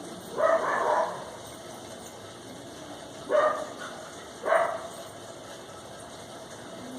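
A dog barking a few times in short, separate barks: one at about half a second in, then two more close together past the middle.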